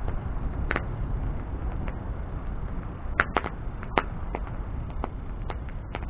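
A wood bonfire crackling: sharp, irregular pops and snaps, several a second at times, over a steady low rush of burning flame.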